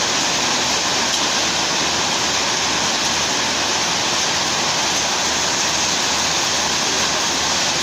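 Heavy rain pouring down: a loud, steady, unbroken hiss.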